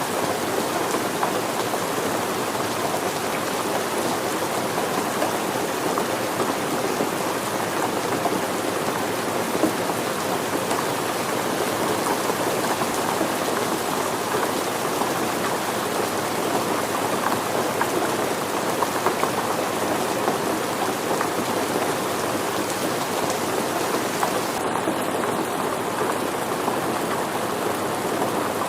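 Steady rain falling and pattering on surfaces, an even hiss with no break in it.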